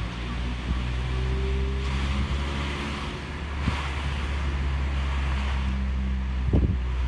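Exhaust note of a Mazda MX-5 (ND) 1.5-litre four-cylinder through a Suruga Speed PFS Loop Sound aftermarket muffler, holding a steady low drone while cruising, with wind and road noise from the open top. A low thump about six and a half seconds in.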